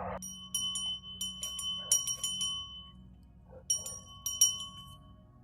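A small metal bell ringing, struck again and again at the same pitch in irregular clusters, with a pause in the middle.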